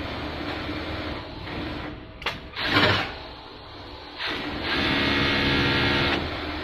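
Richpeace industrial sewing machine stitching. It runs steadily at first, gives a sharp click and a short loud burst about halfway, goes quieter for a moment, then runs steadily again for the last two seconds.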